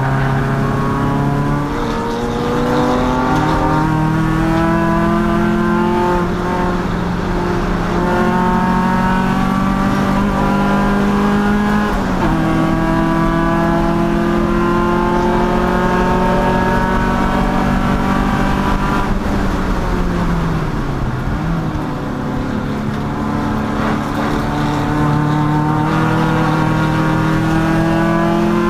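Endurance race car's engine running hard, its pitch climbing slowly in each gear with short breaks at the shifts. About twenty seconds in the revs fall away, then climb again.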